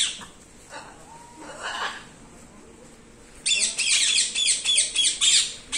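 A bird squawking: a short harsh call at the start, another near two seconds in, then a loud fast run of repeated squawks over the last two seconds.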